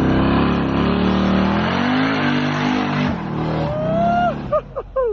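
A car doing a burnout: the engine is revved high while the rear tires spin and squeal on the pavement. It cuts off suddenly about three seconds in, followed by a few short calls.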